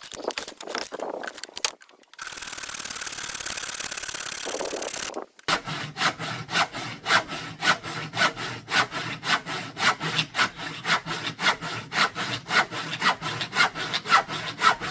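A hand saw cutting through the old window frame in steady back-and-forth strokes, about three a second, from about five seconds in. Before that come a few irregular knocks and about three seconds of steady cutting noise.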